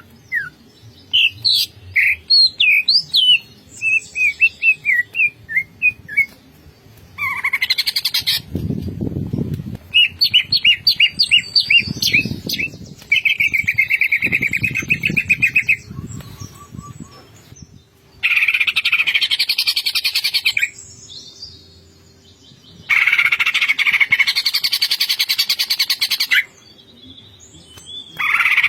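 Green leafbird (cucak ijo) singing in full voice: a run of varied whistled chirps, then repeated long bursts of fast, rattling trills (the 'ngentrok' style) a few seconds apart.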